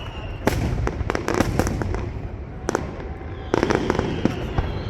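Aerial fireworks going off: a sharp bang about half a second in followed by a spatter of rapid crackles, a single bang near the middle, then another burst of bangs and crackling about three and a half seconds in.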